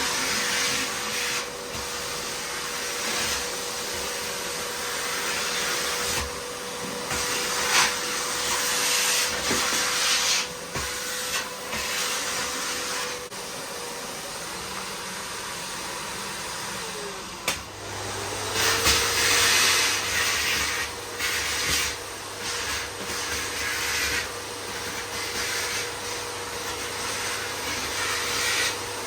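Miele vacuum cleaner running with a steady motor whine over the rush of suction, which swells and dips as the nozzle moves over the floor. About halfway through the whine fades. A sharp click follows, and the motor's pitch rises back up to full speed.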